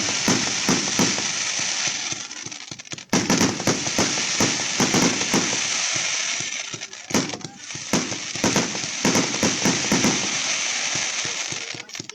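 Fireworks display: dense, rapid crackling and popping bursts over a steady hiss, with short lulls about three and seven seconds in.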